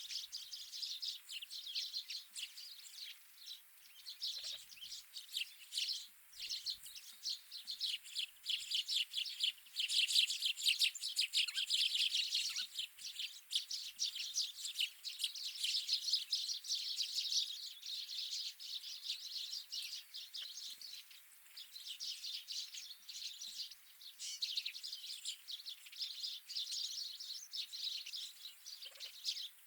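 Many wild winter birds chirping and twittering together in a dense, unbroken chatter of short high calls, busiest around the middle.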